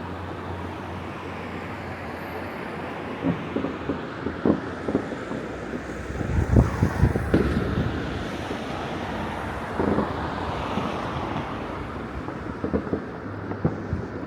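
Distant fireworks going off across a city, a scatter of sharp bangs, thickest about halfway through, over wind rumble on the microphone and a steady background hum.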